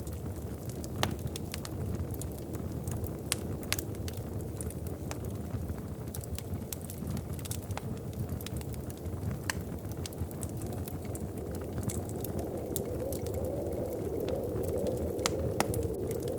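Wood fire crackling in a fireplace: scattered sharp pops and snaps over a steady low rumble of the flames. A wind howl swells up over the last few seconds.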